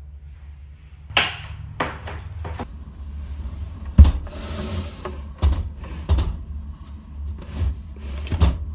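A series of irregular knocks and thuds, seven or so, the loudest about four seconds in, over a steady low rumble.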